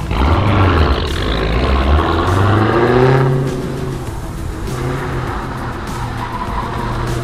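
Dodge Challenger Hellcat's supercharged V8 revving hard as the car spins on the lot, its pitch climbing over the first three seconds with a strong hiss, then holding steadier and a little quieter.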